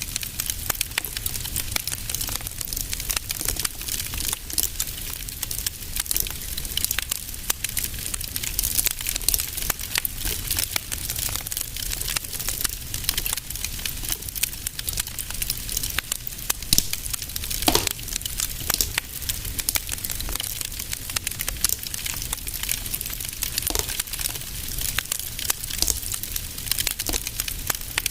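Wood fire crackling in a fireplace: dense small crackles over a steady hiss and low rumble, with a few louder single pops, the clearest about two-thirds of the way through.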